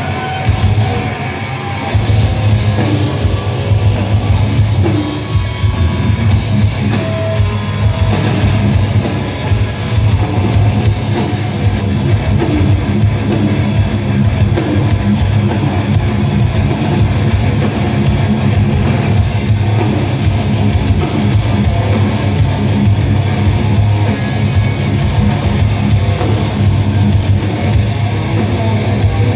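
Live heavy metal band playing, loud and continuous, with distorted electric guitars, bass and drum kit, as heard from the crowd.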